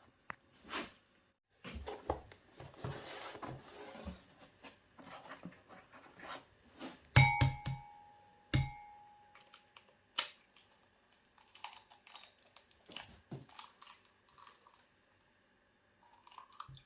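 Kitchen handling sounds while baking: rustling and tearing of packaging, light knocks and clicks, and a ringing clink of a dish or utensil being set down about seven seconds in, with another knock a second or so later.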